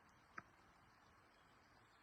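Near silence: a faint steady hiss, with one short tick about half a second in.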